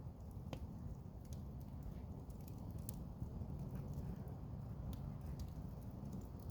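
Campfire burning, with wood crackling in scattered, irregular sharp pops over a steady low rumble.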